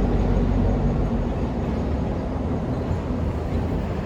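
Diesel-electric road-switcher locomotive (EMD GP9U) idling: a steady low drone from its two-stroke V16 diesel engine, easing slightly in the second half.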